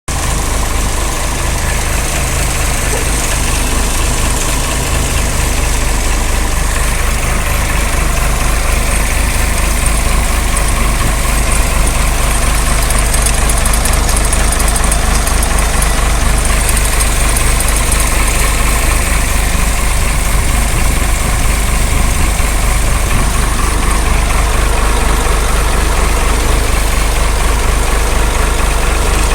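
Tata vehicle engine idling steadily with an even low rumble, run to show an engine problem.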